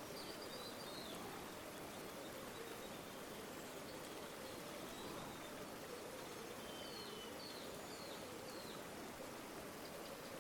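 River water flowing steadily. Faint high bird chirps come about half a second in and several more between about six and nine seconds.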